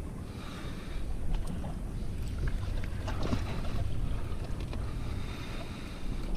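Wind rumbling on the microphone and water moving around a small boat, steady throughout.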